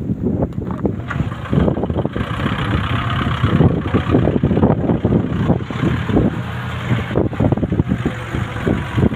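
A motor vehicle engine running steadily. A higher hiss joins about a second and a half in.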